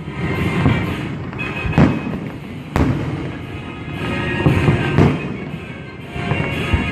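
Fireworks going off in a series of loud bangs, about one every second, over continuous music.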